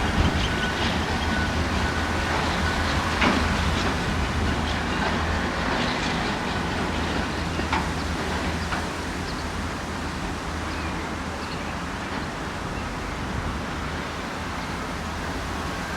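Train rolling by, a steady rumble with a low hum and scattered sharp clicks from the wheels, slowly fading away.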